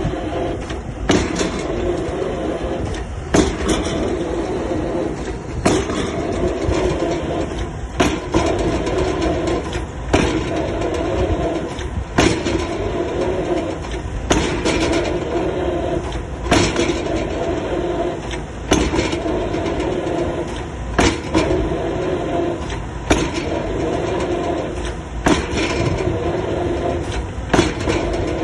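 Excavator drop hammer striking the top of a square concrete pile, one sharp blow about every two seconds, over the excavator's steady diesel engine hum.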